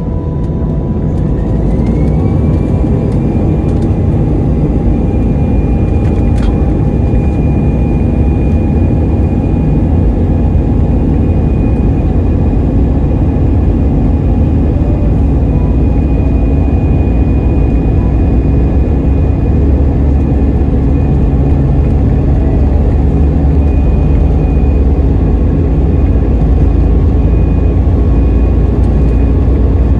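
Airbus A319 jet engines spooling up to takeoff power, heard from inside the cabin: a whine rises in pitch over the first couple of seconds and then holds steady over a loud, steady rumble.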